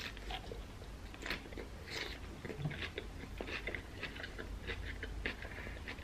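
Close-up chewing of a mouthful of chicken salad: steady crunching with small wet mouth clicks.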